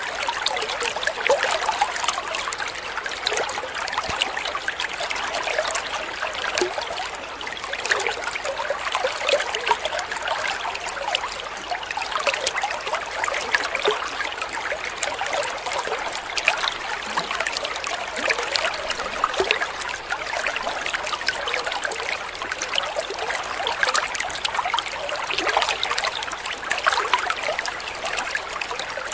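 Flowing water trickling and splashing steadily, a constant bright babble without pauses.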